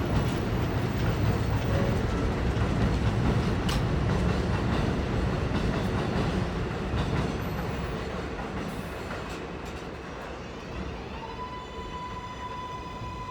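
Kawasaki R188 subway train pulling out: the rumble and clatter of its wheels on the rails fade away over the second half. Near the end a steady whine with overtones starts up.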